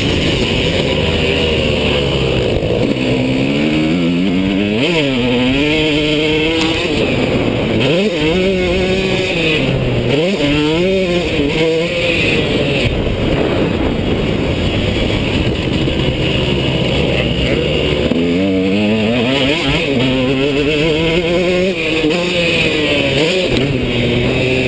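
Two-stroke KTM motocross bike engine revving hard, its pitch climbing and dropping again and again as the throttle is worked and opened and closed around the track.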